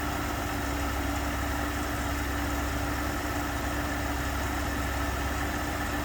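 2019 Ford F-150's 3.5 L EcoBoost twin-turbo V6 idling steadily after a cold start.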